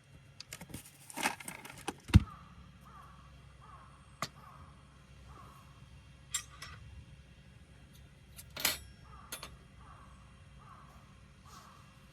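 Camping gear being handled: metallic clinks and rattles, with a single heavy knock about two seconds in. A faint call repeats steadily in the background, about once or twice a second.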